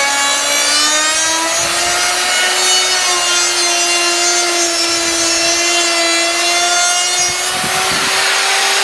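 Router milling the profiled edge of a wooden door rail: a steady high motor whine over the noise of the bit cutting wood. The pitch rises slightly over the first couple of seconds, then holds.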